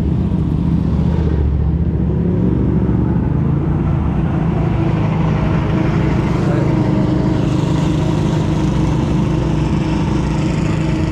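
Motorcycle engines running steadily at close range, with a heavier low rumble in the first couple of seconds.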